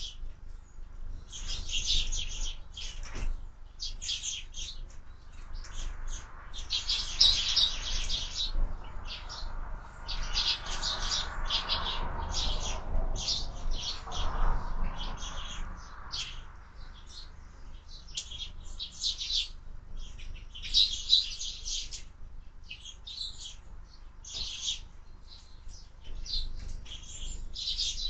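Sparrows chirping at a feeder: many short, high chirps in quick clusters that keep coming with only brief gaps, over a low steady rumble.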